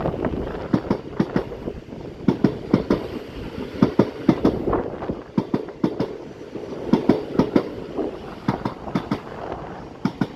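Electric passenger train passing and running away along the tracks: a steady rumble under a run of sharp wheel clacks over the rail joints, coming in clusters.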